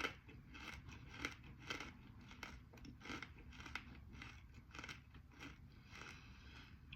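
Close-up chewing of a piece of edible slate, with dry crunches about every half second that grow softer near the end as it is ground down.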